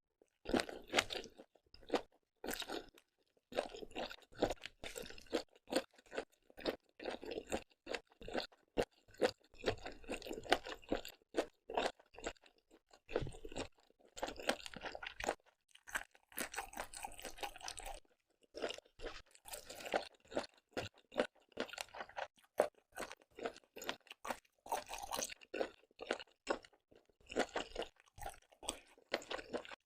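Close-miked chewing and crunching of seafood, a dense run of wet crackling clicks broken by a few short pauses.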